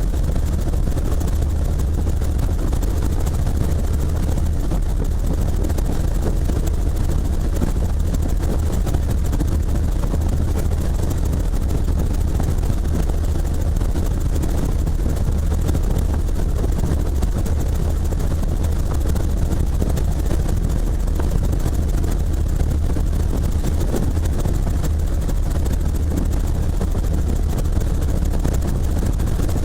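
Helicopter in flight: steady, unbroken engine and rotor noise with a heavy low rumble.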